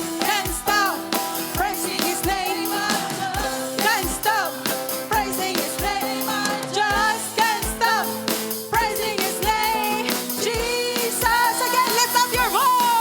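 Worship band music: voices singing over held keyboard chords and a steady drum beat.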